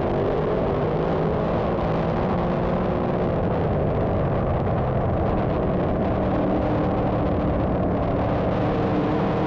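Dirt modified race cars' engines running at racing speed: a steady, dense drone with several engine tones shifting slowly in pitch.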